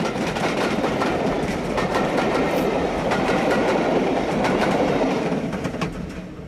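A train running past, its wheels clicking over the rail joints, fading away near the end.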